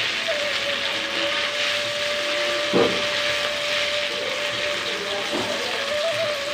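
Green chilies and ginger sizzling in hot oil in a kadhai as they are stirred with a spatula, with one knock of the spatula against the pan about three seconds in. A long held note of background music runs underneath.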